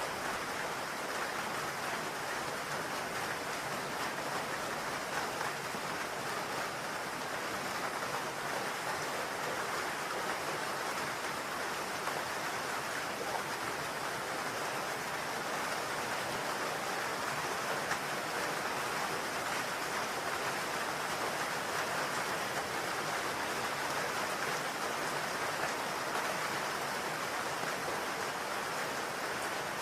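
Steady rain pattering on a roof, a dense, even hiss of drops with no let-up.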